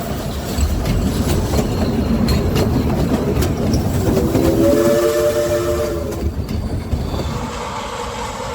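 Heritage train running, with low rumble and wheel clatter, and a chime whistle sounding once for about two seconds around the middle.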